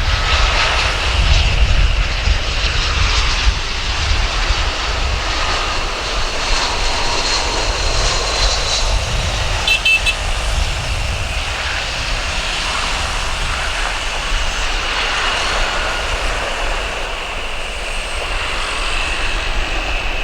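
Airbus A320-232 airliner's IAE V2500 turbofan engines, a jet rumble with a steady high whine as the aircraft comes in to land; the low rumble eases after the first few seconds.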